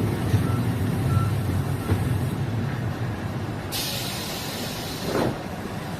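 Diesel multiple-unit railcar's running rumble dying away as it slows, then a sudden hiss of compressed air from the train's air brakes lasting about a second and a half.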